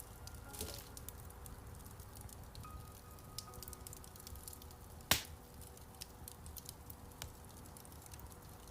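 Wood fire crackling in a fireplace: scattered small crackles and snaps over a low rumble of the flames, with one loud pop about five seconds in.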